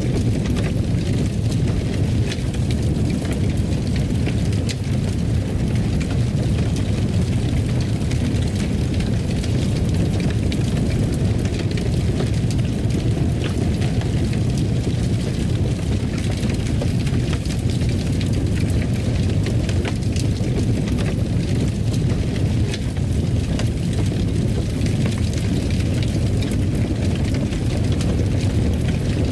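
Wood fire crackling with a continuous low rumble: a steady stream of small pops and snaps throughout.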